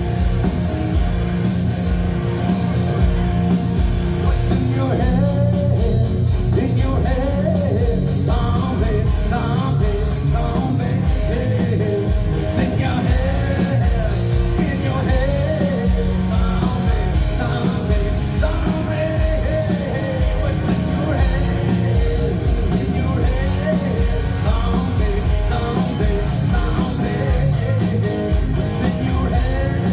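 Live rock band playing: guitar over bass and drum kit, with a wavering melodic lead line.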